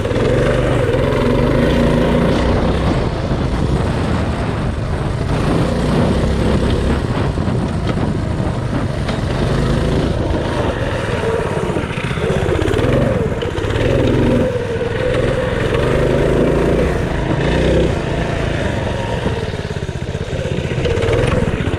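Mini bike's small single-cylinder engine running hard under load as the bike is ridden, the revs rising and falling several times around the middle.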